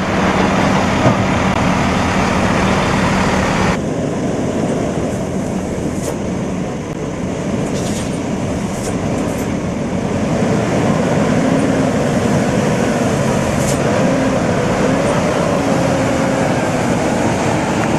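Heavy truck engine running amid road noise, loud and steady, with a low hum. About four seconds in the sound changes abruptly to a different mix of engine and road noise, with a few faint clicks.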